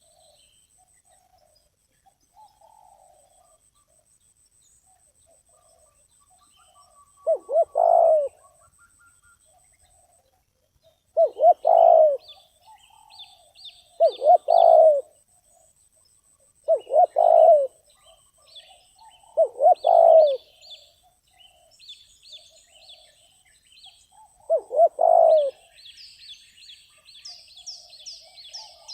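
Spotted dove cooing: six phrases, each of two short coos and a longer one, a few seconds apart. Small birds chirp high in between, with a quick run of falling chirps near the end.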